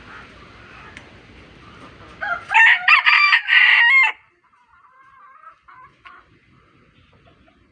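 A rooster crows once, starting a little past two seconds in and lasting under two seconds, a loud call in a few broken segments. Before it there is only a faint steady background hiss, and after it faint scattered calls.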